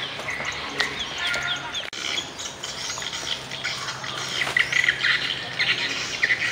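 Many small birds chirping and calling at once, a dense run of short, quick, falling notes with a brief break about two seconds in.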